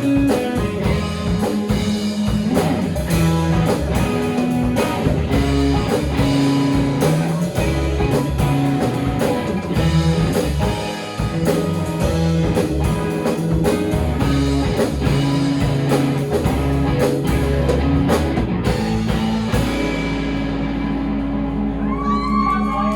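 Live rock band playing with drum kit, bass and guitar; near the end the drums stop and a final chord is held, ringing out.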